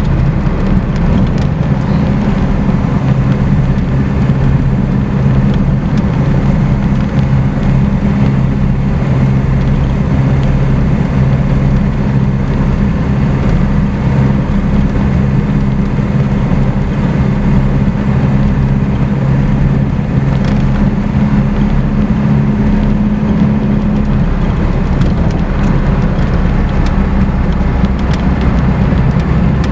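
1951 Lanchester LD10's four-cylinder engine running steadily while the car is driven, heard from inside the cabin over road noise. Its note drops lower near the end.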